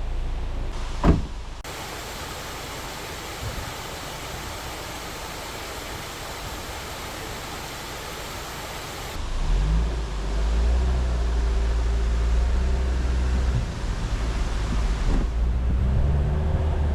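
A sharp knock about a second in, then a steady rushing noise, and from about nine seconds a Jeep Wrangler's engine running steadily with a low rumble as it drives.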